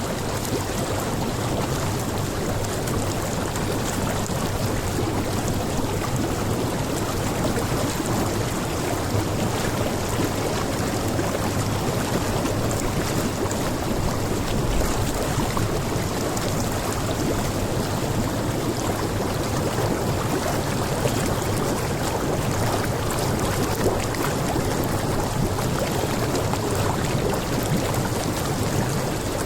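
Jacuzzi air jets bubbling and churning the water steadily, with heavy rain falling.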